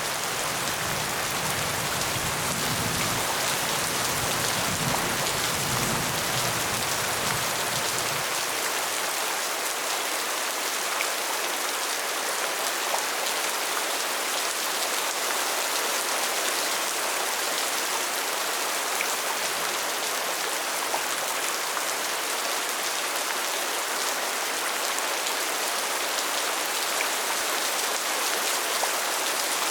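Steady rain falling, an even hiss of many drops with an occasional faint distinct drop. A low rumble lies under the rain for the first eight seconds or so, then stops.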